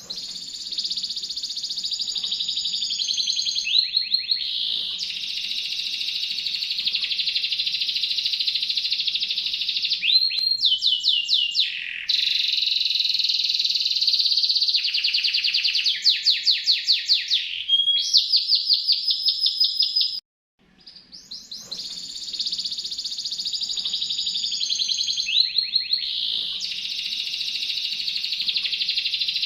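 Domestic canary singing a continuous song of fast trills and rolling repeated notes. It breaks off briefly about two-thirds of the way through and starts the same song over, as a looped recording.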